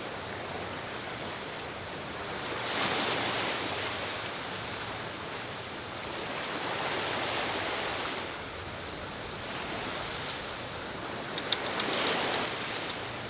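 Sea waves breaking on the shore, the surf swelling and falling back about every four seconds, with wind. A couple of short sharp ticks come near the end.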